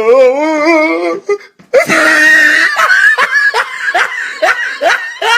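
A person laughing hard: a wavering, drawn-out laugh, a short break, then a high shriek that breaks into a rapid run of laughs, about three a second.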